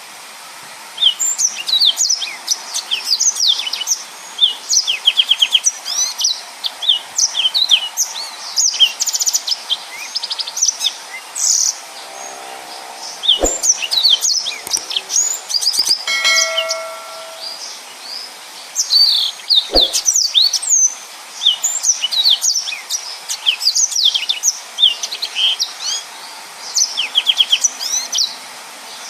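Yellow-fronted canary singing continuously in a rapid, high-pitched run of chirps, slurred whistles and fast trills, with short pauses between phrases. A couple of sharp clicks and one brief ringing tone break in about halfway through.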